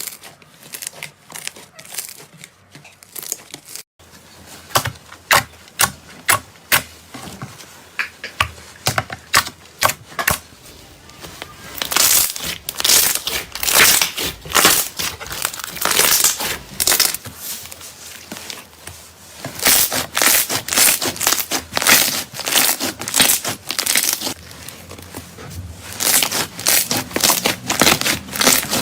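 Slime being squeezed and pressed by hand, making a rapid run of sticky clicks and pops that grows denser and louder about twelve seconds in.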